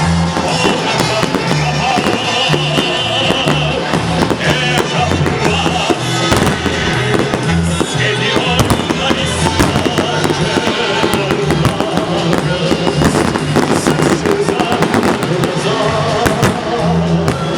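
Fireworks salute bursting and crackling, many sharp bangs in quick succession over continuous music with a steady beat.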